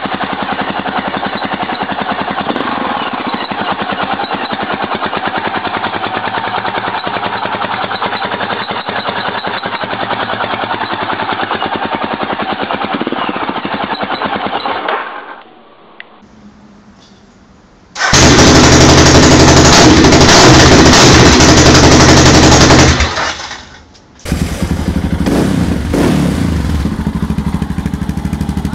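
Aprilia Pegaso 650 single-cylinder engine running through aftermarket exhausts, a rapid staccato exhaust beat. It drops away for a few seconds, comes back much louder for about five seconds, stops briefly, then runs again.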